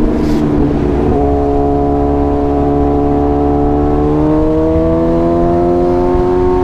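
Suzuki 1000cc supersport motorcycle engine running hard. Its pitch steps up a little about a second in, then climbs slowly through the second half as the bike accelerates.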